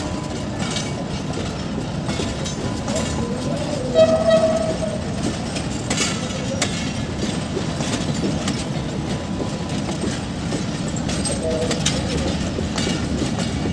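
Shah Hussain Express passenger train pulling out, its wheels rumbling and clicking over the rail joints. A brief, louder tone comes about four seconds in.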